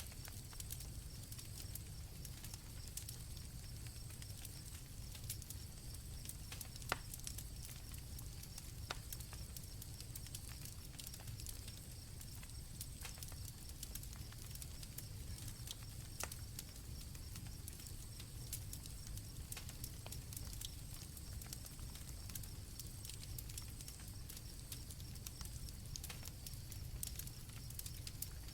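Night campfire crackling, with sharp pops scattered irregularly and one louder pop about seven seconds in, over a low rumble. Crickets chirp steadily and high-pitched throughout.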